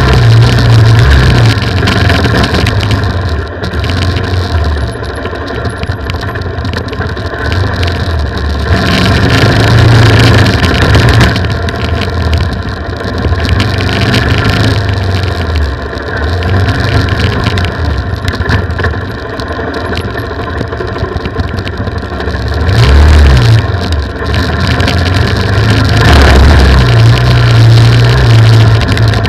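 Off-road motorcycle engine heard from a camera mounted on the bike, its revs rising and falling again and again as it rides a dirt trail.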